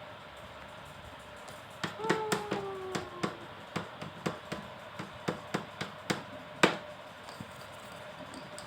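Irregular light tapping clicks, several a second, starting about two seconds in over a steady faint hum, like keys being typed. A short, slightly falling pitched tone sounds once among the first taps.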